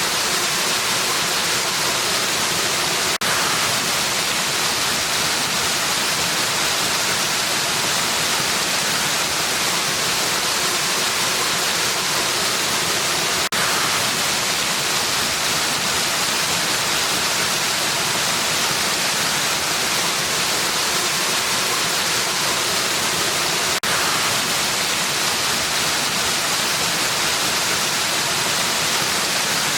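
Waterfall: a steady, even rush of falling water with a strong hiss. A faint tick comes three times, about ten seconds apart.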